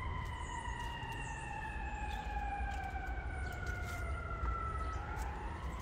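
Siren wailing: its pitch falls slowly for about five seconds, then starts to climb again near the end.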